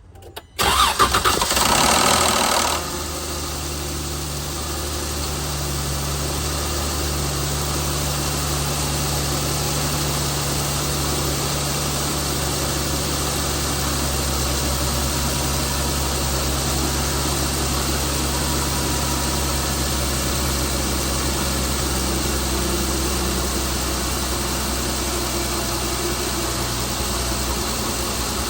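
Chrysler Pentastar 3.6-litre V6 starting with a loud cranking noise that lasts about two seconds, the start-up noise the owner considers abnormal, then settling into a steady idle.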